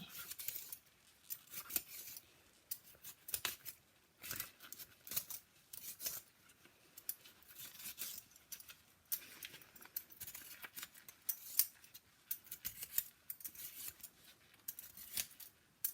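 A Jerusalem artichoke being peeled: short, irregular scraping strokes of a blade on the knobbly skin, several a second with small pauses.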